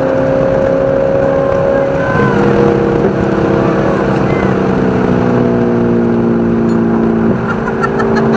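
Race car engine heard from inside the car, running hard and loud, its pitch stepping down suddenly twice: about two seconds in and near the end.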